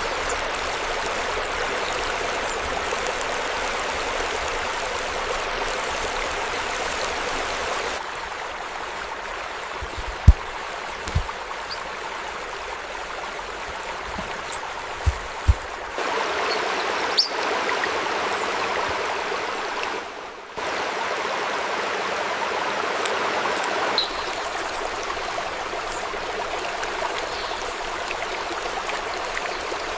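Stream water running steadily, a continuous rushing that shifts in level and tone every several seconds. A few short, dull low thumps come in the middle, the loudest about ten seconds in.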